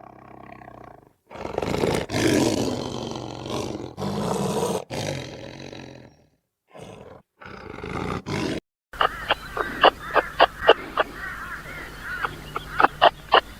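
A large wild animal roaring: several long, harsh roars, then a few shorter ones. About nine seconds in it gives way to a different sound: a rapid series of short, sharp calls or clicks, a few each second.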